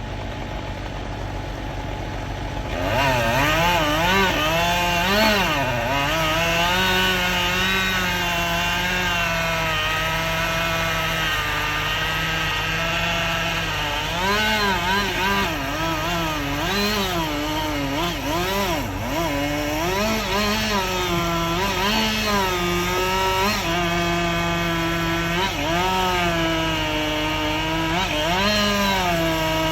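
Gas chainsaw throttling up about three seconds in and running at high revs, its pitch dipping and recovering again and again as it cuts into wood.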